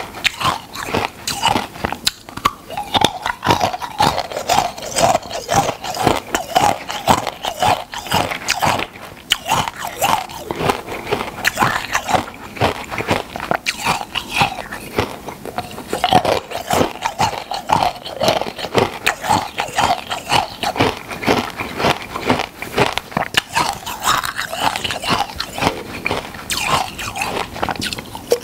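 Close-up crunching and chewing of crisp food, with a rapid, continuous crackle of bites.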